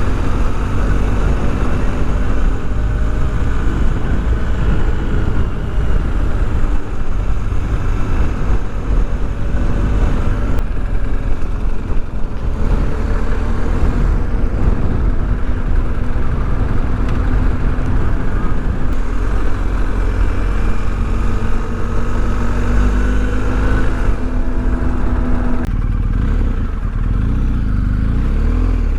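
BMW R 1250 GS boxer twin running under way, its engine note drifting up and down with speed, over heavy wind rumble on the microphone.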